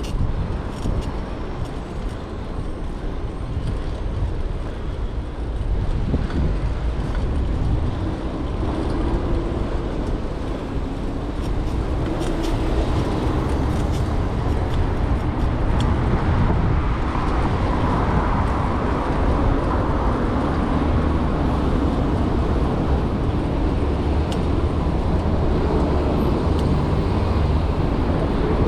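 City street traffic noise with cars passing, picked up from a moving bicycle. Steady, and a little louder from about halfway through.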